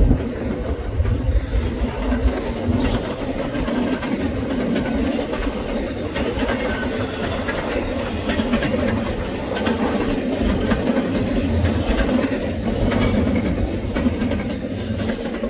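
Double-stack intermodal well cars rolling past: a steady rumble of steel wheels on rail, with light clicking over the rail joints.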